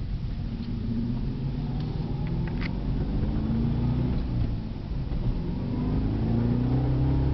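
Supercharged 6.2-litre V8 of a 2011 Cadillac CTS-V coupe accelerating under load, its note rising in pitch, dipping briefly about five seconds in, then rising again as it pulls through the gears; the car still picks up well.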